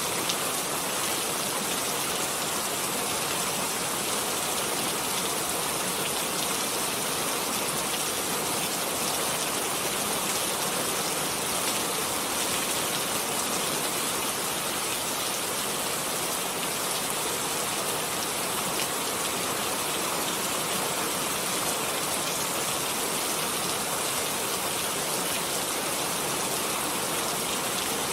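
Steady, even rain falling, with no breaks or distinct events.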